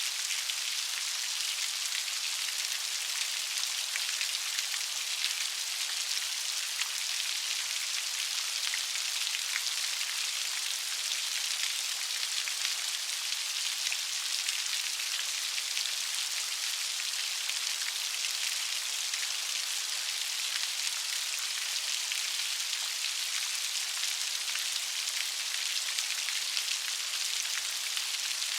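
Steady light rain falling on a surface, an even hiss of many small drop patters that holds level throughout.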